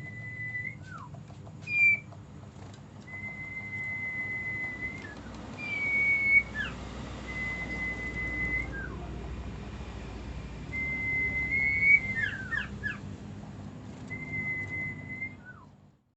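A pet cipo songbird whistling: long, level whistled notes, each held a second or two and often ending in a short falling note, repeated about five times, with a quick cluster of chirps about two thirds of the way through. The sound cuts off near the end.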